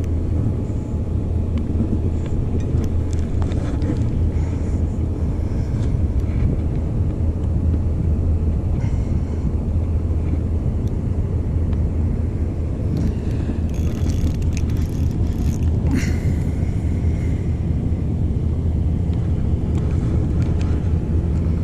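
Steady low rumble of a small boat's engine running, with wind and water noise over it. There are a few faint clicks and knocks a little past the middle.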